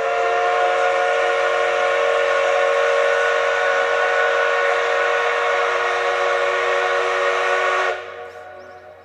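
Steam whistle of the C58 steam locomotive giving one long departure blast. It is a loud chord of several steady tones that holds for about eight seconds, cuts off sharply, and leaves a fading echo.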